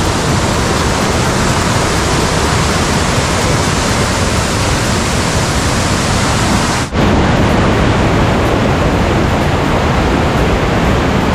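Fast-flowing stream swollen by continuous rain, water rushing loudly and steadily; the sound drops out for an instant about seven seconds in.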